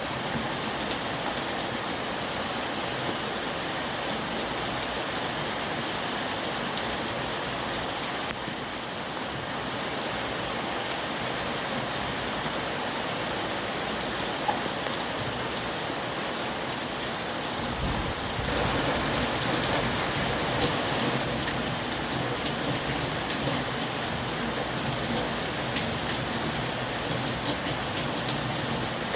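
Heavy rain falling steadily, a dense hiss of drops hitting surfaces. About two-thirds of the way through it grows louder and fuller.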